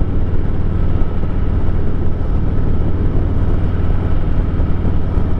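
2023 Harley-Davidson Heritage Classic 114's Milwaukee-Eight 114 V-twin running steadily under way, a deep even rumble, with wind rushing over the microphone.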